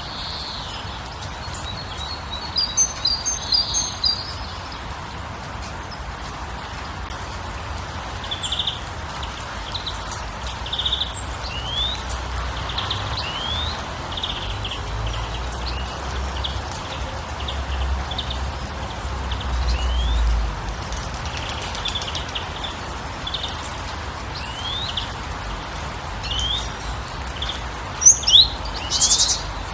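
Small birds chirping, short rising calls repeated every second or so with a brighter burst of calls near the start and the loudest chirps near the end, over a steady hiss of water. A low rumble swells up briefly midway.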